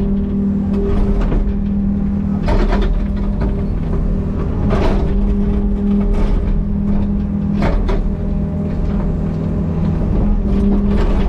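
Excavator's diesel engine running steadily, with a handful of sharp knocks or cracks over it a few seconds apart.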